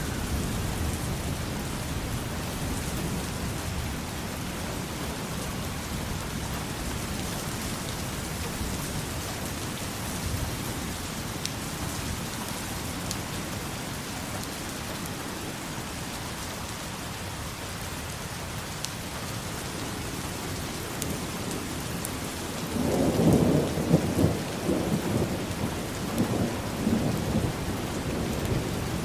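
Steady rain falling, with a few faint drop clicks. Near the end a low roll of thunder rumbles for several seconds.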